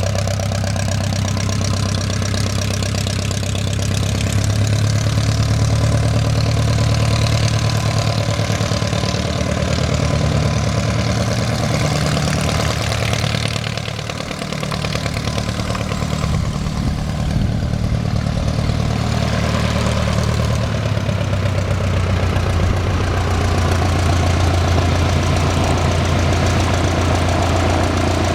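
The four-cylinder Continental C-85 engine and propeller of a 1946 Cessna 120 run steadily at low taxi power. About halfway through, the engine note drops briefly, then picks back up.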